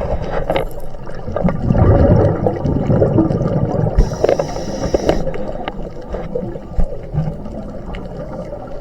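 Water bubbling and gurgling, with a hiss lasting about a second near the middle.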